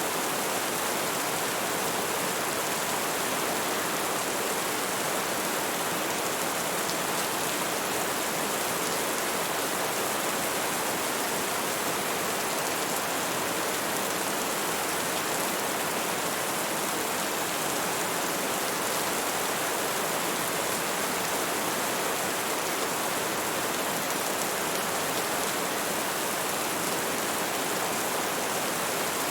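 Steady rain falling and pattering on a surface, an even hiss at constant level.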